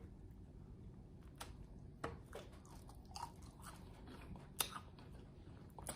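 Faint chewing and mouth sounds of someone eating chicken wings close to the microphone, with a few small scattered clicks.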